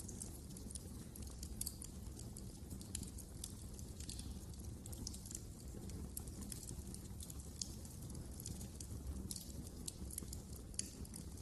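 Wood fire in a fireplace crackling, with a steady low rumble of the flames and frequent small snaps, a few louder pops standing out.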